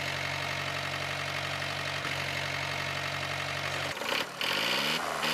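Truck engine idling steadily, then revving with a rising pitch about four seconds in.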